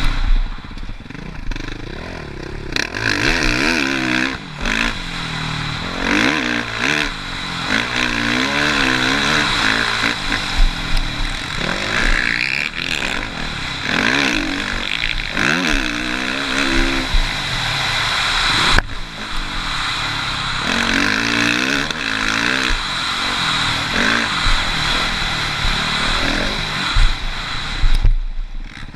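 Suzuki RM-Z450 motocross bike's single-cylinder four-stroke engine being ridden hard, revving up and backing off over and over, its pitch rising and falling every second or two. The engine briefly cuts away twice, once past the middle and once near the end.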